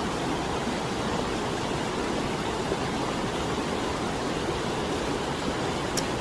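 Steady rushing of flowing water, like a stream or waterfall, an even hiss with no change in level. One short high click sounds near the end.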